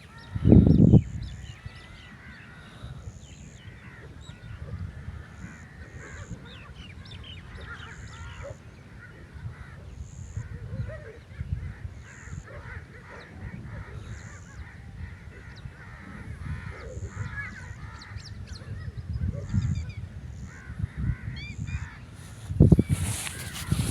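Birds calling: many short chirps and calls overlapping throughout. A loud low thump comes about half a second in, and more low thumps come near the end.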